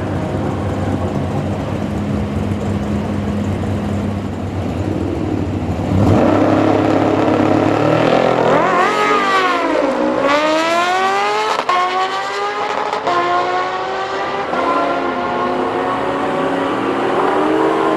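Drag-racing engines of a car and a superbike idling steadily at the start line, then, about six seconds in, launching and revving hard. The engine pitch climbs and drops several times as they accelerate through the gears.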